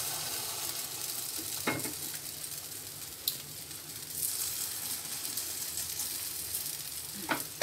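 Corned beef and egg omelette mixture sizzling in hot oil in a nonstick frying pan. The sizzle swells about four seconds in as a fresh spoonful of the mixture goes into the pan. A few short clicks of the spoon against the pan come through.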